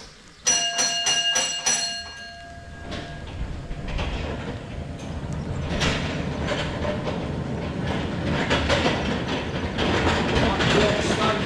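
A bell struck about five times in quick succession, ringing on briefly. Then a narrow-gauge train runs along the track, its wheels clattering in a steady rhythm and growing louder as it comes closer.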